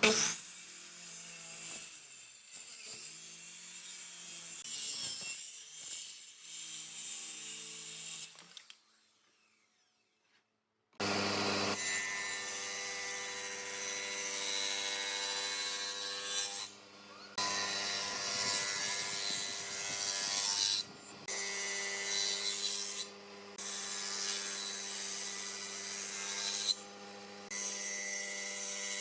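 Electric power tool working wood. After a brief silence about a third of the way in, a steady motor hum with a high hiss runs on, broken off by short gaps a few times.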